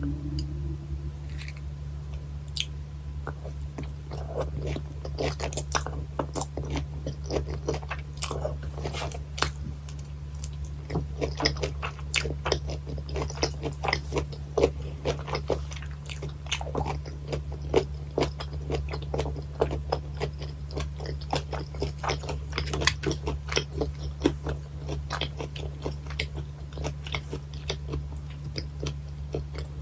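Close-miked chewing of raw gizzard shad sashimi cut bone-in, the small bones crunching between the teeth. The crunches are sparse at first and come thick and irregular after a few seconds, over a steady low hum.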